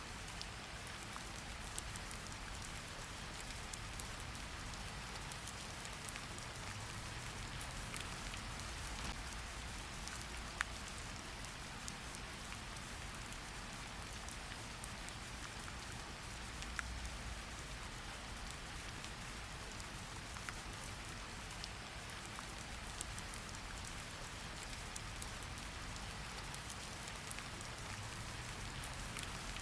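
Steady rain falling, an even hiss of rain with scattered individual drops ticking sharply on a surface, one louder drop about ten seconds in.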